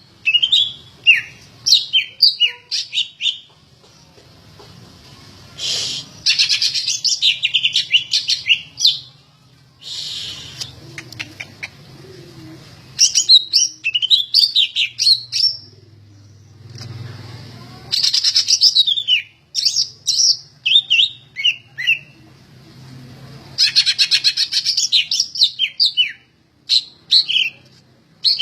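Cucak ijo (green leafbird) singing vigorously: repeated bursts of rapid, sliding high whistles and chirps, each phrase lasting one to three seconds, with short pauses between phrases.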